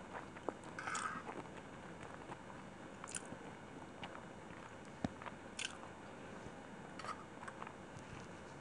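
Close-miked chewing of a mouthful of chicken biryani, with wet mouth and lip smacks every second or two and a single sharp click about five seconds in.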